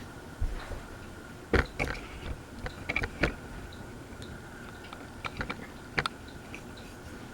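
NuTone Hacienda ceiling fan running with a steady faint whine, with irregular clicks and knocks over it, clustered in the first half and again about six seconds in.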